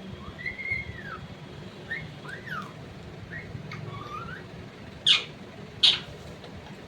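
Pet parrot whistling a run of short notes that glide up and down, then giving two sharp, loud squawks less than a second apart near the end.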